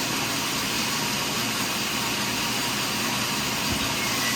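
Portable sawmill running steadily, a continuous loud engine-and-saw noise that does not rise or fall.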